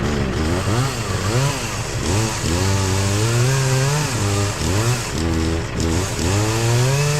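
Chainsaw running, its engine revving up and dropping back over and over, then held steady at a higher speed near the end.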